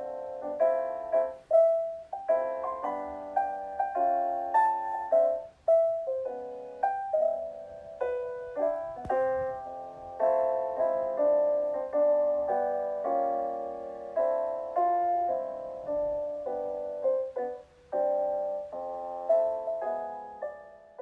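Solo piano background music: a gentle melody of struck notes, each fading after it is played, with short pauses just after five seconds and near eighteen seconds.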